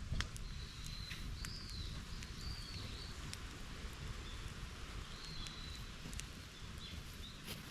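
A bird calling a few short whistled notes, over a steady low outdoor rumble with scattered sharp clicks.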